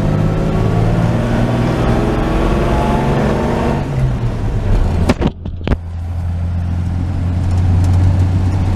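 1949 Chevy truck's 235 cubic-inch straight-six pulling under acceleration, its pitch rising for about four seconds. About five seconds in the engine note drops out briefly with a few sharp clicks, then settles into a steady, lower run.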